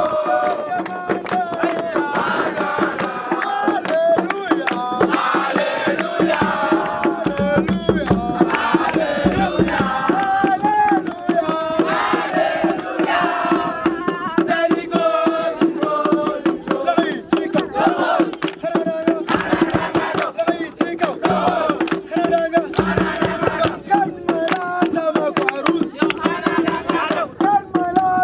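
A crowd of voices chanting and singing together, with frequent sharp percussive hits and a steady hum underneath.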